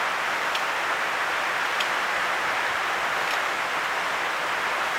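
Steady, even hiss with three faint ticks spread through it.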